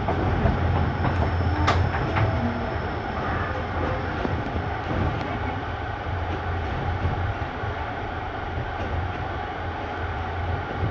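Passenger train running along the track, heard from on board: a steady low rumble with a few sharp clicks and knocks, the loudest about two seconds in.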